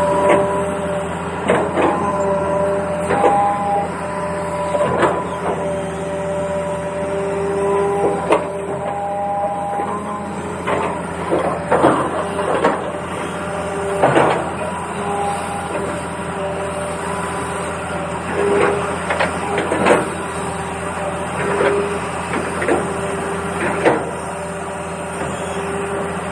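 Small electric motors of a toy excavator running with a steady whine, a higher tone cutting in and out as different motors start and stop, and irregular clicks and scrapes every second or two as it digs sand and stones.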